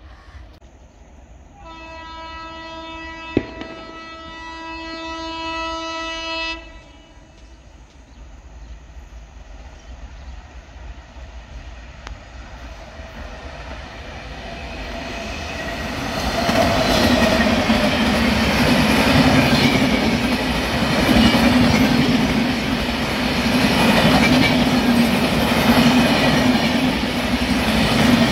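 Indian Railways train: the locomotive horn sounds one long steady blast of about five seconds, then the train approaches and passes at speed. The running noise and wheel clatter grow from about halfway and are loudest near the end.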